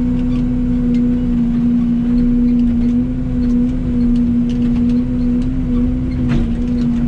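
Excavator engine and hydraulics running steadily under load, with a strong steady hum and scattered light knocks, a sharper knock about six seconds in, as old culvert pipe is dragged out.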